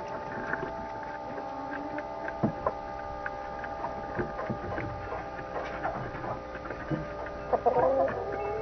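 Steady electrical hum made of several constant tones, with scattered light clicks and a brief wavering chirp near the end.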